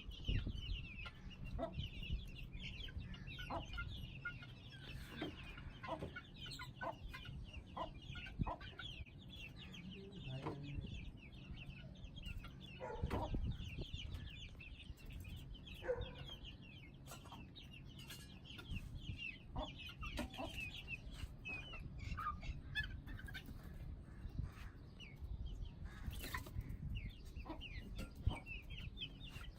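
A flock of young Aseel chicks peeping and clucking continuously: many short, high calls overlapping, with occasional soft knocks and taps among them.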